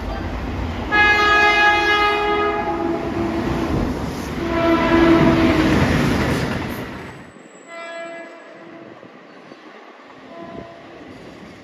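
Keihan Electric Railway train horn: two long blasts, about a second in and again about four and a half seconds in, over the loud rumble of a passing train. After an abrupt cut past the middle, shorter and fainter horn blasts follow.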